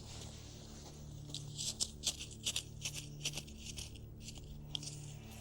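Sand being scraped and scooped, as when burying a cut-off snake head: a quick run of short gritty scrapes and crunches over a faint low hum.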